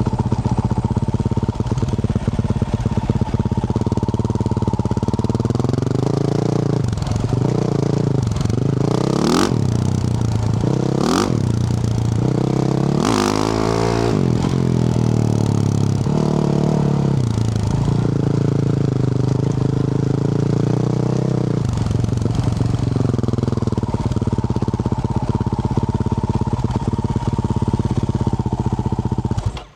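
2024 Yamaha YZ450F's 450 cc single-cylinder four-stroke engine through a Yoshimura RS-12 exhaust, picked up close to the exhaust side, running at a steady pace. For several seconds in the middle the revs rise and fall repeatedly as the throttle is worked, with a few sharp crackles, then it settles back to steady running. The sound cuts off suddenly at the very end.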